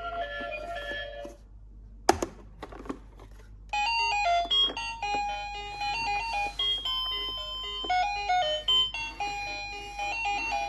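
A simple electronic melody of clean, chime-like notes, typical of a toy's built-in tune. It breaks off briefly, with a sharp click about two seconds in, and starts again about four seconds in.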